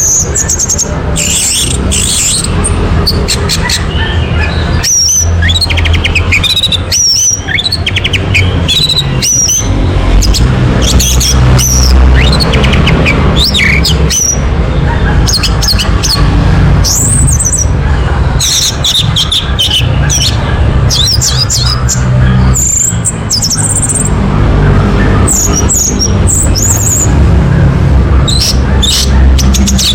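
Orange-headed thrush singing a fast, continuous run of varied high chirps, whistles and trills, over a steady low hum.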